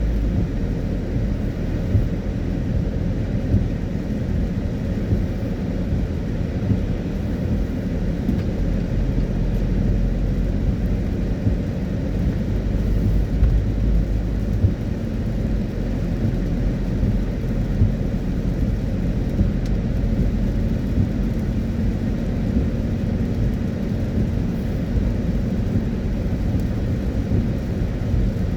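Car driving in the rain: a steady low rumble of road and tyre noise on a wet road, with small scattered ticks.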